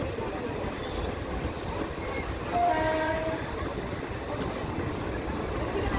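Passenger train running through a station, heard from aboard the coach as a steady rumble of wheels on the track. A train horn sounds briefly about two and a half seconds in, for under a second.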